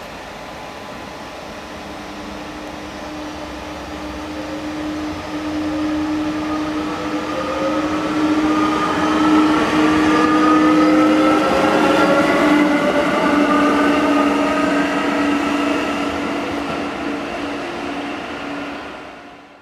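A train accelerating past, with several whining tones rising in pitch over a steady hum. It grows louder toward the middle, then fades.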